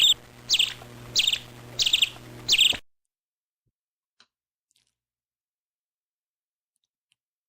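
A bird calling: five sharp, high calls about 0.6 s apart over a low hum, stopping after about three seconds and leaving near silence.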